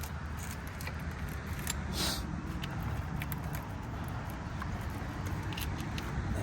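Light clicks and rattles of hands working plastic connectors and hardware in an engine bay, with a short scraping rush about two seconds in, over a steady low hum.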